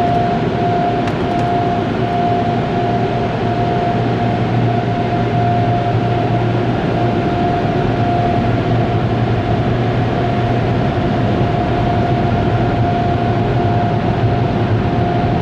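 Touchless automatic car wash machinery running steadily, heard from inside the car: a loud, constant rush with a steady whine over a low hum.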